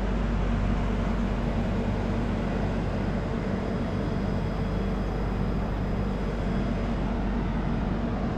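A stationary air-conditioned LHB passenger train standing at a platform gives off a steady low drone with an even hum, from its idling power and air-conditioning equipment.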